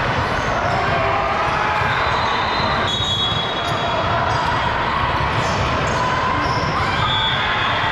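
Game noise echoing in a gym: a ball hitting the court and players' sneakers squeaking on the floor, over a steady murmur of spectators' voices.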